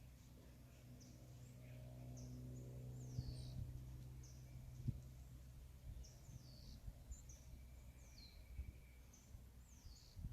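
Wild birds calling faintly: short, high notes that slide down in pitch, repeated every second or so. A steady low hum runs underneath.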